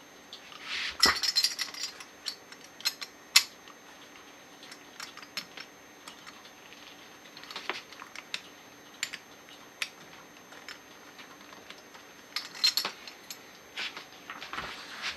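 Small metal parts and tools clicking and clinking on a work surface while a scuba regulator first stage is taken apart. Scattered single clinks throughout, with busier clusters about a second in and near the end.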